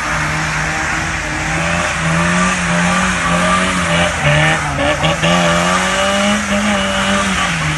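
Tofaş Doğan's engine held at high revs while drifting, its pitch rising and dipping again and again as the throttle is worked, over a steady hiss of spinning, sliding tyres.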